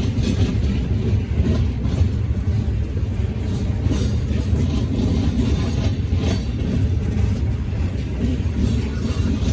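Freight cars of a local train rolling past, a steady low rumble with wheel clicks over the rail joints.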